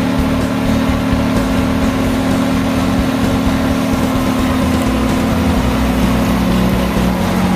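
GreenMech QuadTrak 160 wood chipper's engine running steadily, its pitch dropping slightly about five seconds in.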